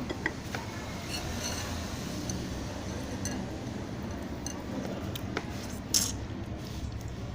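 Spoon clinking against a soup bowl during eating, a few separate light clinks with the loudest about six seconds in, over a steady low hum.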